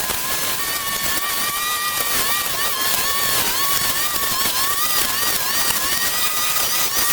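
Small engine of a garden power tool running at high speed, its whine wavering up and down as the load on it changes.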